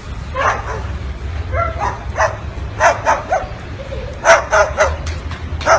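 A dozen or so short, sharp barks in uneven succession, over a steady low hum.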